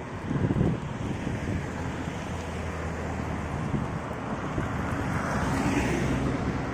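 Road traffic with wind buffeting the microphone: a steady low engine hum, and a vehicle passing with a rising and falling whoosh about five to six seconds in.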